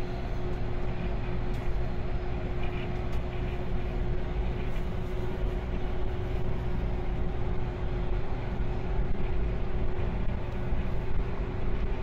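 JNR 185 series electric train running at speed, heard from inside the carriage: a steady rumble with one constant hum and a few faint clicks.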